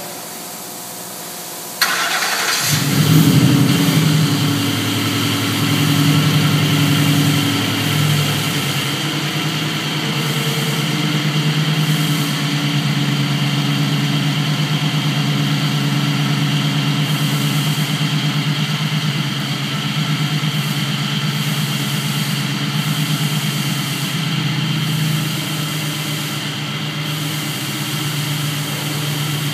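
Ford Coyote 5.0 DOHC V8 starting for the first time in a restomod 1968 Mustang fastback. It cranks briefly about two seconds in, catches and flares, then settles into a steady idle.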